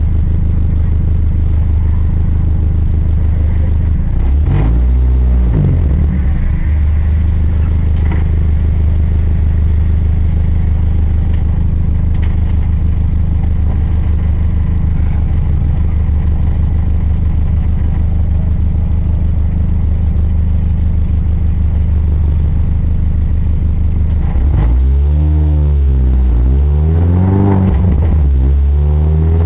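Mini's engine running hard at steady revs under load. Its pitch dips and comes back briefly about five seconds in, then near the end the revs rise and fall several times in quick succession.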